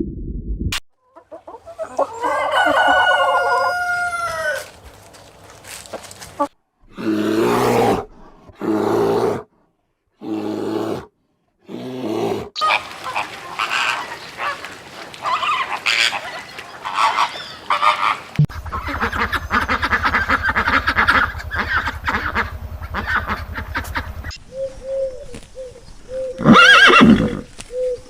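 Chickens clucking and a rooster crowing, in several short clips with abrupt cuts and brief silences between them; the loudest call comes near the end.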